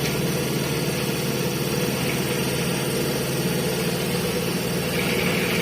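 A machine running steadily in the background, a low, even drone that does not change.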